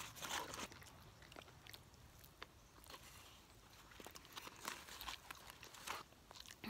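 Someone chewing crunchy fried chicken close to the microphone: faint, scattered crunches and clicks, most of them in the first second.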